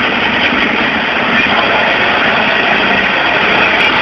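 Engine of a pulling vehicle running hard under load, a loud steady noise that rises a little toward the end.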